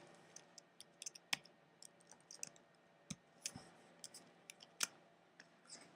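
Faint, irregular clicks of a computer mouse and keyboard in use, about fifteen sharp ticks scattered unevenly over a few seconds.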